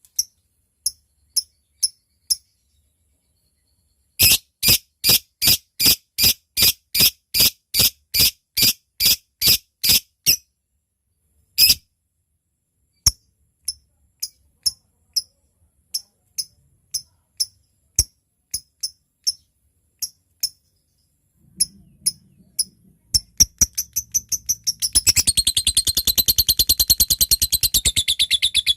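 Lovebird calling with sharp, high, separate chips (its 'ngetik' ticking call), including a run of loud, evenly spaced chips about three a second. The chips then grow sparser and, about 23 seconds in, speed up into a long, fast, continuous chatter: the long 'ngekek' call.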